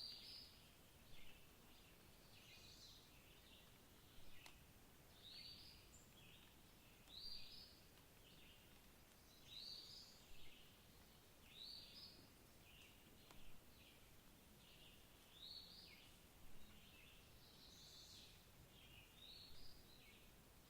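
Songbirds singing faintly: short, high chirping phrases repeating about every second, over a faint steady hiss.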